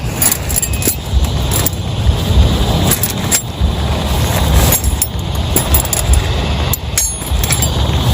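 Heavy rain pelting down, with many sharp drop hits over a steady low rumble.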